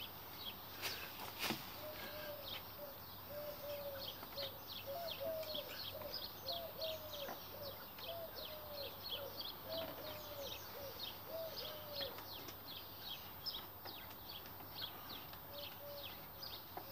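Faint birdsong: a long series of short, high chirps repeated several times a second, with a lower run of repeated arched notes through the middle. Two sharp clicks about a second in.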